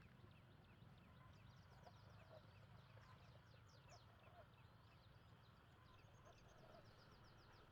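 Faint, quick high chirps of birds repeating throughout, over a low steady hum.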